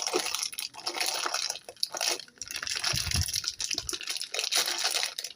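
Water splashing and dripping, irregular and liquid, with a heavier low rumble about three seconds in.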